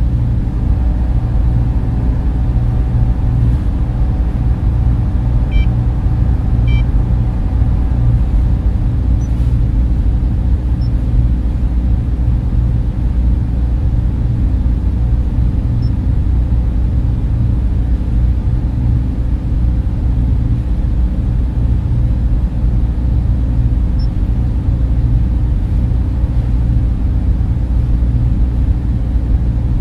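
Server room cooling fans running steadily: a dense, constant low whir and hum with no change in speed.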